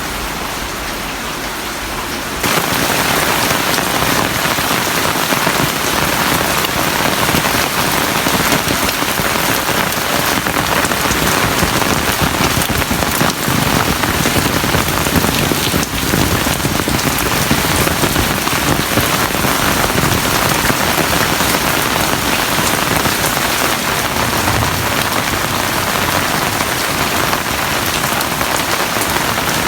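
Heavy rain pouring down in a steady dense hiss, jumping louder about two and a half seconds in and then holding steady.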